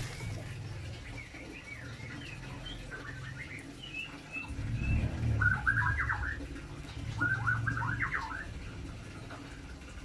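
Birds chirping, with two louder runs of quick, rapid chirps about halfway through and near the end, over a low rumble.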